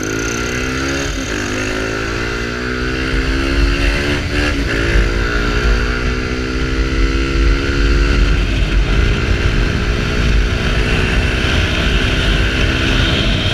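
Small Kawasaki Ninja's parallel-twin engine, fitted with a straight-through sports exhaust, accelerating hard. Its pitch climbs in each gear and drops at three upshifts, about one, four and a half, and nine seconds in, then holds steady. Heavy wind rumble on the microphone lies underneath.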